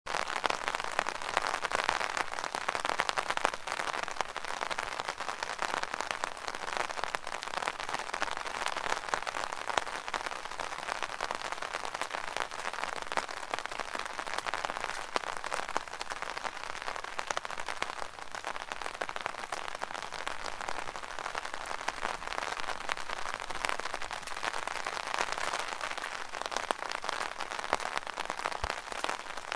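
Rain falling on an umbrella: a steady, dense shower of small drop impacts on the taut canopy.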